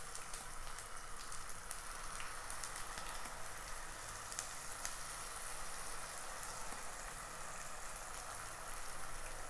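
Handvo batter sizzling as it is poured into hot oil over a tempering of mustard seeds, cumin, sesame and curry leaves in a nonstick kadai: a steady sizzle with scattered small crackles.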